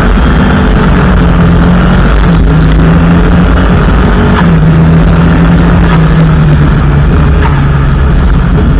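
Mitsubishi Lancer EX turbo rally car's engine running hard at speed on a gravel road, loud and steady, its note breaking briefly every couple of seconds, with sharp clicks of gravel striking the car.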